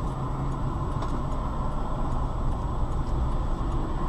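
Steady engine and road noise inside a moving car, a low rumble that holds without change.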